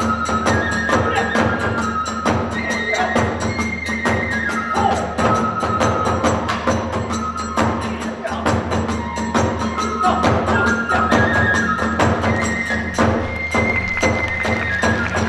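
Hiroshima kagura hayashi ensemble playing fast: a bamboo transverse flute carries a stepping melody over rapid, driving drum beats and clashing hand cymbals.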